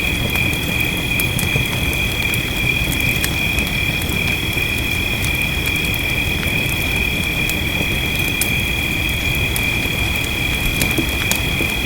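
Wood fire crackling with scattered sharp snaps over a steady rain hiss, with a steady high-pitched drone held throughout.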